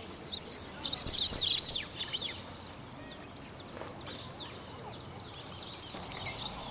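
Small birds chirping: many short, arching high calls, overlapping and loudest in a cluster about a second in.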